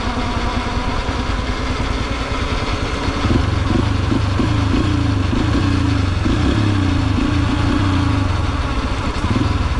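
Yamaha TT-R125's single-cylinder four-stroke engine running as the dirt bike rides along. It gets louder about three seconds in, its pitch climbing and dropping again and again as the bike accelerates and shifts.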